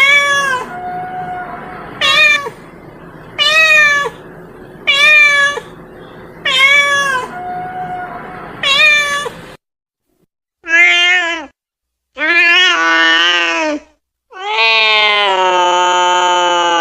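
Domestic cat meowing repeatedly, about nine meows. The first six come over a steady background hiss. After a brief silence about ten seconds in come three louder, longer meows, the last one drawn out for about three seconds.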